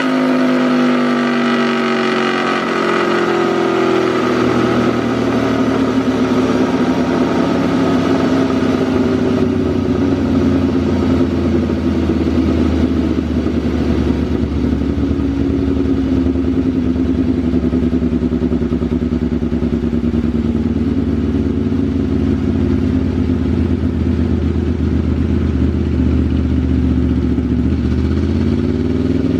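Aprilia RSV4 Factory V4 engine running through a Racefit slip-on exhaust. The revs drop over the first few seconds, then hold with a slowly falling pitch, and start climbing again near the end.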